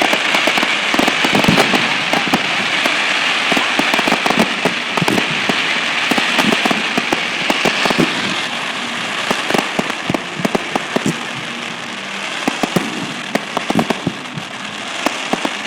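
Fireworks crackling: a dense hiss of countless small pops with sharper cracks scattered through it, thinning a little in the second half.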